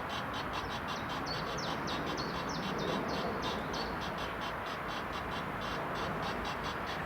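A songbird singing a long run of short, high, rapidly repeated notes, about five or six a second, with a few notes sliding downward between about one and four seconds in, over a steady background rush.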